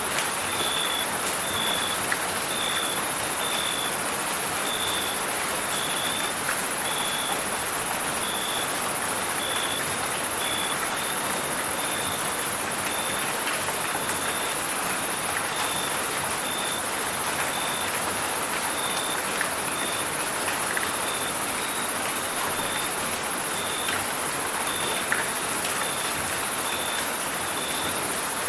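Steady rain hiss with a cricket chirping in an even rhythm, about one chirp a second, over a constant high-pitched insect trill. Faint ticks of drops come through here and there.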